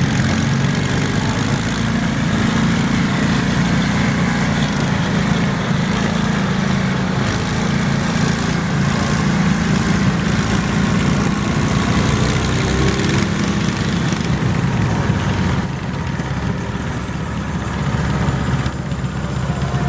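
Garden tractor engine running steadily, dipping briefly in level twice near the end.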